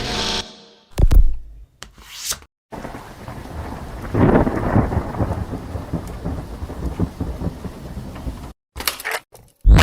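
Thunderstorm: steady rain with a rumble of thunder that swells and fades a little after the rain begins. A few short, separate sound effects come before it.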